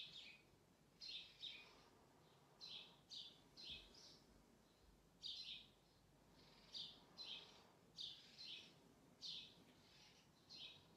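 A small bird chirping repeatedly: short, high chirps, often in quick pairs, about one burst every second, faint over quiet room tone.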